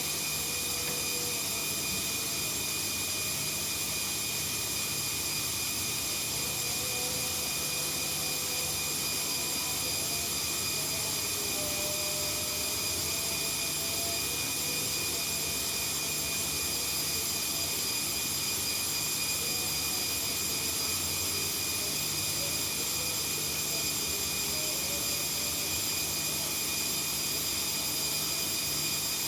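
Washing machines on a high-speed spin cycle: a steady motor and drum whine with several high steady tones over a low hum.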